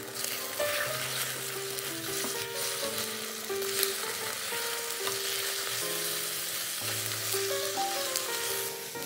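Tofu cubes and beaten egg sizzling in a frying pan as a silicone spatula stirs and turns them, the egg setting while it is scrambled through the tofu, with a few sharper scrapes of the spatula. Light background music plays underneath.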